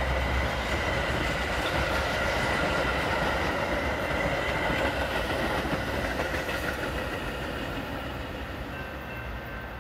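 Metra commuter train of bilevel gallery cars running through the station at speed without stopping: a steady rush of steel wheels on the rails, fading over the last few seconds as the train moves away.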